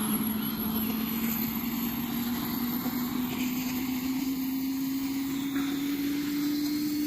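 Helicopter engine running, its whine rising slowly and steadily in pitch over a rough rumble, as the engine spools up.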